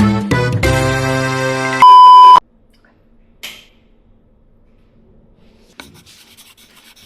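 Music with plucked or keyed notes that stops about two seconds in, cut off by a single loud, steady electronic beep lasting about half a second, followed by faint room sound with a soft click near the end.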